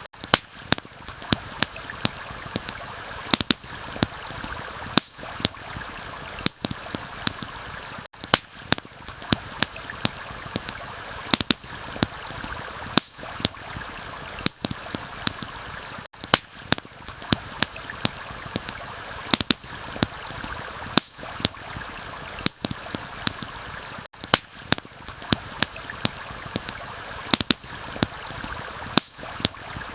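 Campfire crackling, with frequent sharp pops and snaps, over the steady rush of a running stream.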